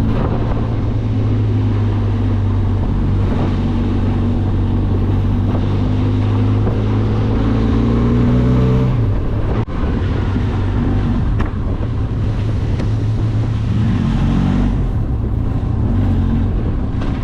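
Benelli TRK 502X motorcycle's parallel-twin engine running steadily under way, holding one pitch, then a brief dip about ten seconds in, after which the engine note rises and falls.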